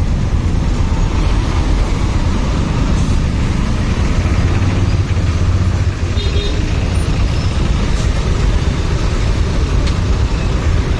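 Motorcycle riding in traffic: a steady, loud rumble of engine, road and wind noise, heaviest in the low end.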